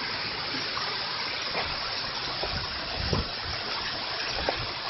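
Water rushing steadily over a small waterfall, with a few brief low thumps about three seconds in.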